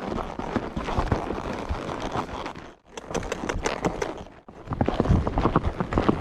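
Horse hooves clip-clopping, a quick irregular clatter of hoof strikes. The sound drops out briefly twice, near three and four and a half seconds in.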